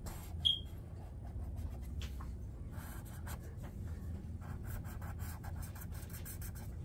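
Quick scratchy strokes of a drawing tool on paper, coming fast and thick in the second half, with one short high squeak about half a second in.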